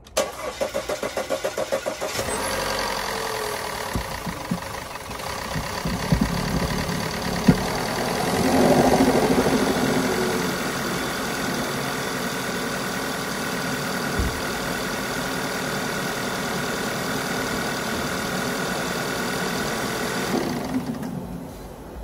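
Audi 2.0 TFSI turbocharged four-cylinder cranked on the starter for about two seconds, then catching and running. It swells briefly around eight seconds, settles to a steady idle, and cuts out near the end. This is the first start after a high-pressure fuel pump swap, with fuel pressure still building.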